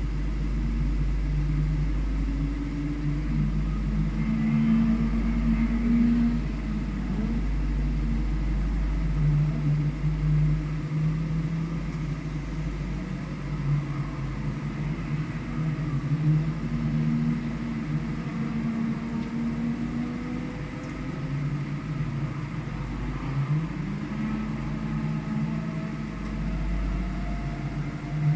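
Engine of a vehicle heard onboard while lapping a circuit, its pitch rising and falling repeatedly as it accelerates and eases off, over a heavy low rumble.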